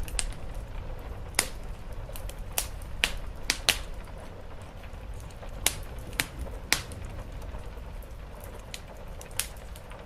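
Wood fire crackling, with a dozen or so sharp, irregular pops that come mostly in the first seven seconds. Under them is a steady low background of rain on the roof.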